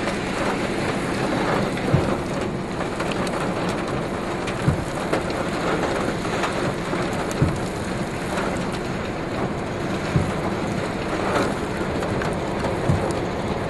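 Steady rush of rain and wind from a severe thunderstorm, with a few short sharp knocks scattered every couple of seconds.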